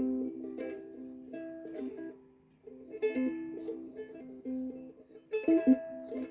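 A plucked string instrument played slowly, single picked notes and chords ringing out and fading, with a short pause about two and a half seconds in. A few sharp clicks stand out louder near the end.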